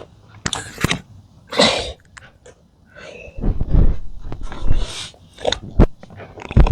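A child making silly breathy, snorting vocal noises close to the microphone, in short irregular bursts, with a few sharp knocks as the camera is handled near the end.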